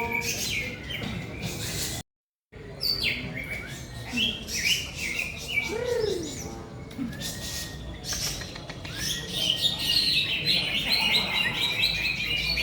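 Several caged songbirds singing at once in a fast tangle of chirps, whistles and trills, breaking off for half a second about two seconds in. From about nine seconds in, one bird keeps up a long, rapid run of repeated high notes.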